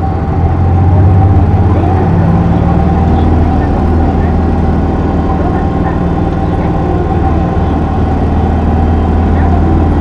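Isuzu Erga PJ-LV234L1 city bus heard from inside the cabin while driving: its straight-six diesel engine holds a steady low drone over tyre and road noise, with a thin steady whine above it.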